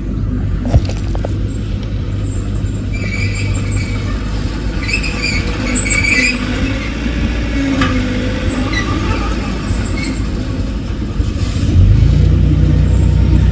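Heavy diesel earthmoving machinery running with a steady low engine drone, with several high metallic squeals in the middle. The engine gets louder and higher, as if under load or revved, near the end.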